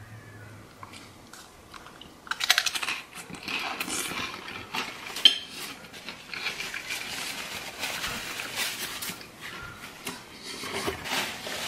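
A person biting into and chewing a fried egg on bread close to the microphone, an irregular run of chewing sounds starting about two seconds in, with one sharp click about five seconds in.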